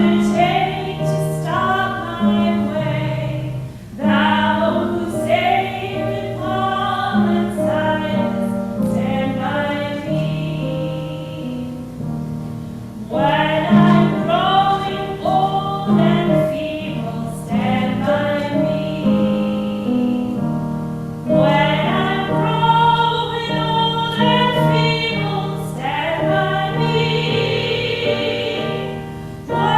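Church choir singing a hymn, with phrases rising and falling and brief breaks between lines.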